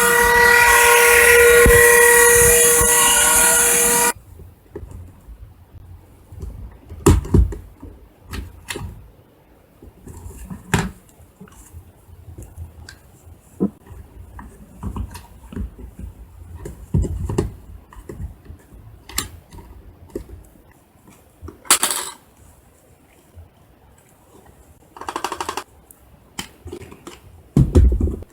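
Cordless stick vacuum cleaner running with a loud, steady high whine and rush of air, cut off suddenly about four seconds in. After that come scattered clicks, knocks and short rustles as the cleaner is handled.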